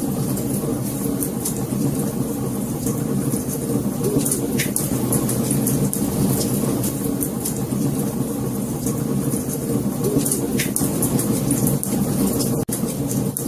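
Fire burning with a steady low rush of flames and scattered sharp crackles and pops. The sound drops out for a split second near the end.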